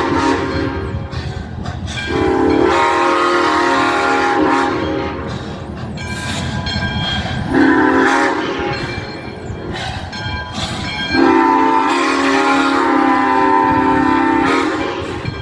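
Locomotive whistle sounding three long multi-note blasts, the last about four seconds, over the steady low rumble of the running locomotive.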